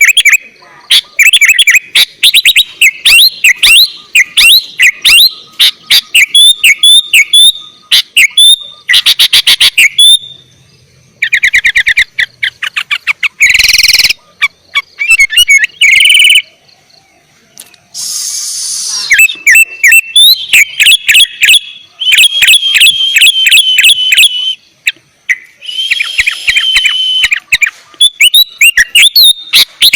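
Sooty-headed bulbul singing loudly and continuously: rapid runs of chirps and whistled notes, broken by a couple of short harsh rasping bursts about 13 and 18 seconds in.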